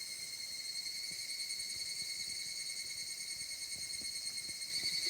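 Crickets trilling in a steady, continuous high chorus, a little louder near the end.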